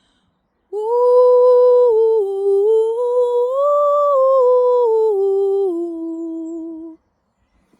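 Vocal toning: one long hummed tone from a single voice that begins about a second in, moves up and down in small steps, rises to its highest note in the middle, then settles lower and stops abruptly near the end.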